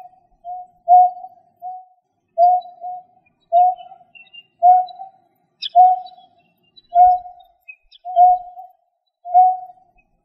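A bird repeating a short, low call note over and over, about once a second, sometimes in quick pairs early on and settling into single evenly spaced notes.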